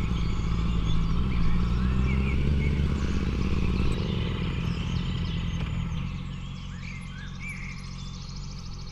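Honda CBR650F's inline-four engine running steadily at low speed on a dirt trail, getting quieter about six seconds in.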